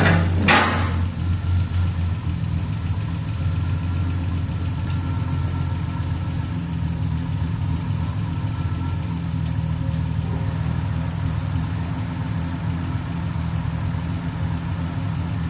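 Triumph TR6's 2.5-litre straight-six running steadily at idle through its old mild-steel exhaust, whose back box has holes in it. A single sharp knock sounds about half a second in.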